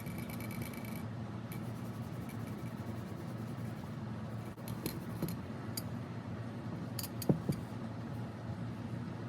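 Small hard objects being handled and set down on a work surface: a few light clicks and clinks, the sharpest pair about seven seconds in, over a steady low hum.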